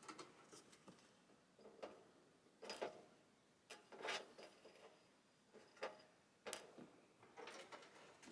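A string of separate light clicks and knocks, several seconds' worth, of screws and dryer panel parts being handled during reassembly.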